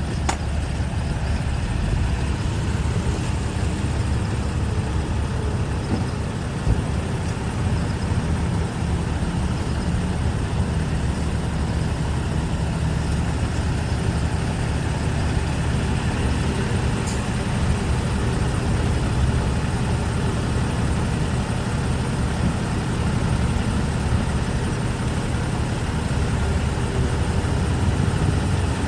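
Heavy diesel engine of earthmoving machinery running steadily, its sound mostly low and even throughout.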